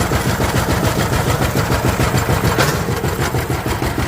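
Diesel engine running steadily at an even speed, with a fast regular beat of firing pulses.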